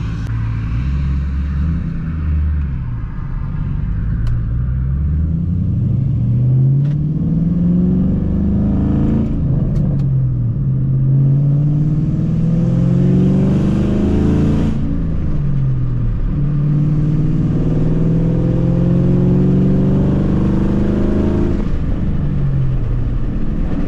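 2010 Ford Mustang GT's 4.6-litre three-valve V8 exhaust, heard through the open window while accelerating. The pitch climbs through the gears, dropping back at an upshift about ten, fifteen and twenty-two seconds in.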